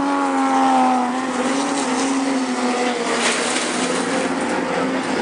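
Super Stocker race sedans' engines running at speed around the track, one steady high engine note that sags slightly over the first couple of seconds, with a brief rush of noise about three seconds in.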